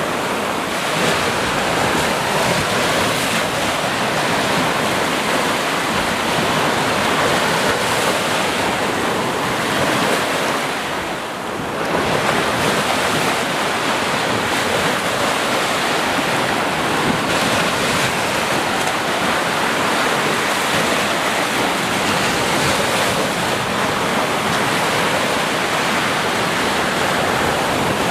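Sea waves washing in on a shore: a steady, full rush of surf that eases briefly about eleven seconds in and then swells back.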